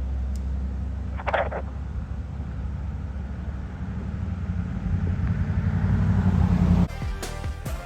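Fire engine's diesel engine running as the truck drives along, growing steadily louder over several seconds, then cut off suddenly near the end by music.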